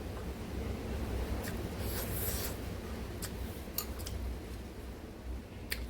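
Close-miked eating of spicy ramen noodles: soft wet mouth sounds and small clicks, with a brief hissing slurp about two seconds in.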